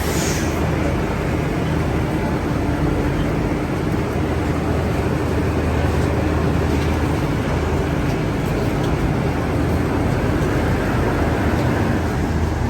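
Metro train running: a steady rumble with a low, even hum.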